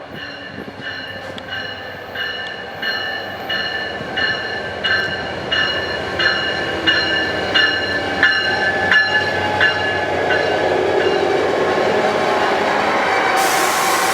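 Arriving Amtrak Pacific Surfliner train with a bell ringing evenly, about every 0.7 s, getting louder as it nears. The ringing gives way to a rising rumble from the train, then a sudden loud hiss near the end.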